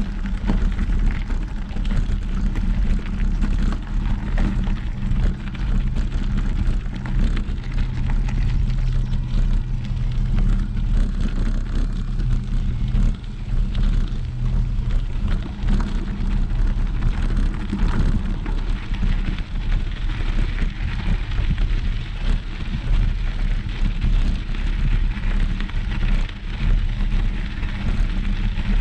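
A steady low engine-like hum with a few held low tones, under an even rushing noise.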